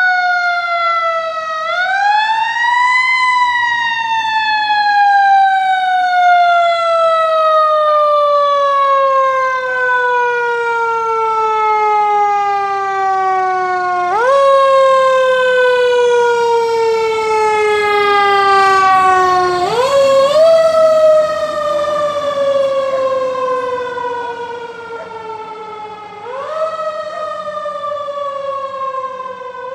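Fire truck siren wailing: it winds up to a high pitch, then slowly falls for many seconds before it is wound up again, four more times, each time more briefly.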